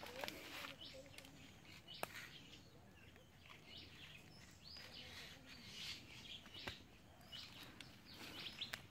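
Faint chirping of small birds in the background, with three or four sharp clicks scattered through.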